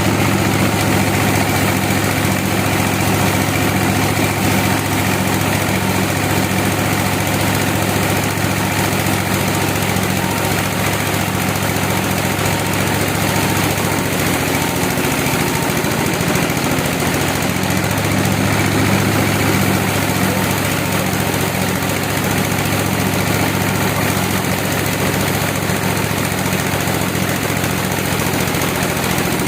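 Sawmill machinery running steadily with a constant low hum.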